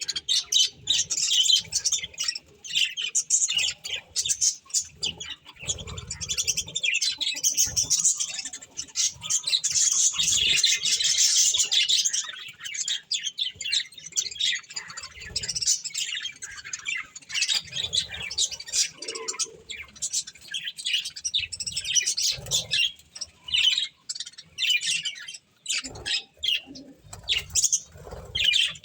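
Budgerigars chirping and chattering continuously, a dense run of rapid high-pitched chirps with occasional squawks.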